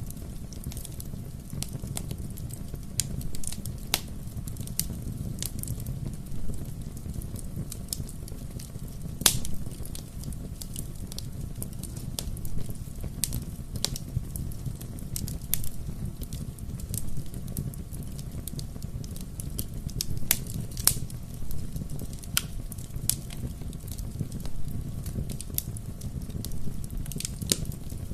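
Bonfire burning: a steady low rumble of flames with frequent sharp pops and crackles, one louder pop about a third of the way in.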